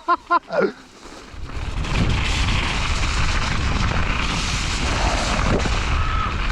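Wind buffeting a GoPro action camera's microphone, a loud, steady rumbling rush that sets in about a second and a half in. It is preceded by a quick run of short, high vocal whoops at the very start.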